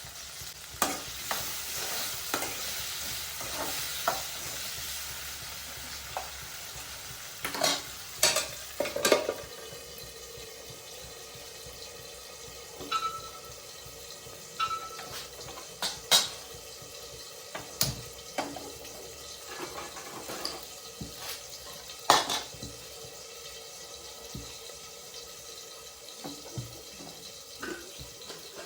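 Food sizzling in a pan while it is stirred, with sharp clicks and knocks of the utensil against the pan now and then. The sizzle is loudest for the first few seconds, then dies down.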